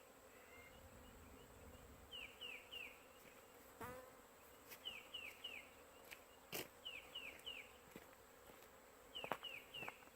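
Honeybees buzzing as a faint steady hum. Over it a bird calls repeatedly in groups of three short falling notes, about every two seconds, and there are a few sharp ticks.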